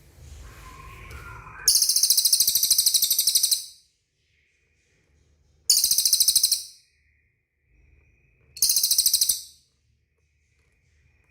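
Cililin bird singing three bursts of very rapid, high-pitched trilling: a long one about two seconds in, then two shorter ones near the middle and towards the end.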